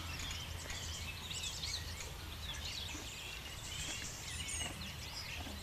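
Birds chirping, many short calls overlapping, over a steady low background hum.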